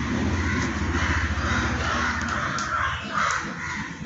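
A run of harsh bird calls, about one every half second, over a low steady hum.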